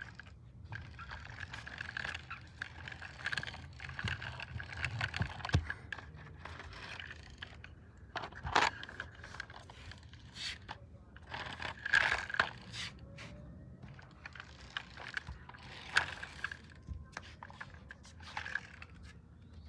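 Scraping and clattering of objects being handled, with irregular sharp clicks and knocks, a few of them louder.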